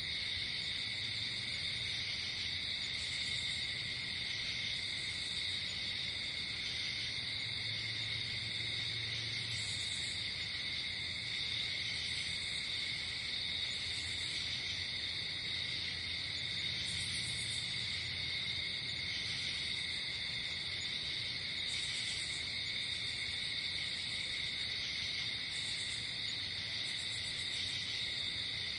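Night insect chorus: crickets trilling steadily, with short higher-pitched chirps repeating every few seconds.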